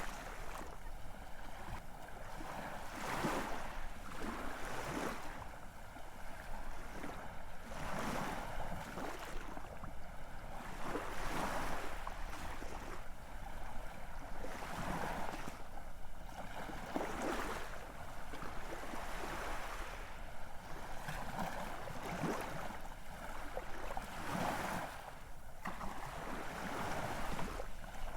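Ocean waves breaking and washing onto a shore, one surge after another every two to three seconds over a steady rush of surf.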